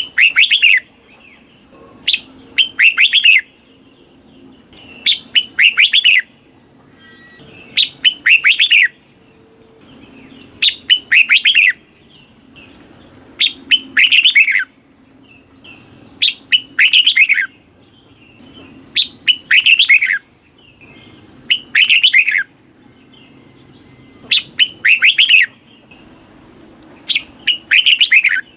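Red-whiskered bulbul song: a short, loud phrase of quick notes falling in pitch, repeated about every three seconds, around ten times.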